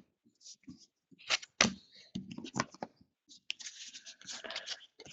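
Basketball trading cards being handled and flipped through: a scattered series of sharp clicks and short scraping slides of card against card, the loudest about one and a half seconds in.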